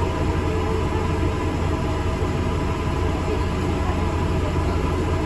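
A steady low drone and rumble from an ADL Enviro 400 MMC double-decker bus on the move, heard inside the cabin: engine and road noise with no changes.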